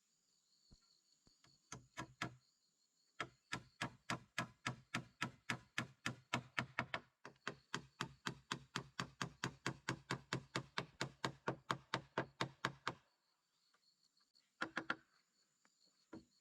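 Rapid, evenly spaced knocking: about four sharp strikes a second for some ten seconds, with a short break partway through and a few single knocks before and after. A steady high insect buzz fills the quiet stretches.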